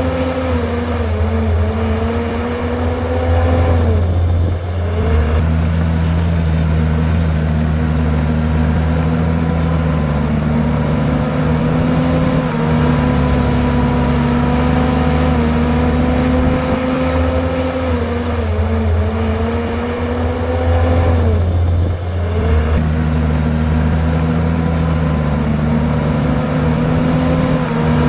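Komatsu bulldozer's diesel engine running steadily, with a steady whine above it. The engine note drops briefly and recovers twice, about four seconds in and again near twenty-two seconds, as the dozer works pushing rocks and soil.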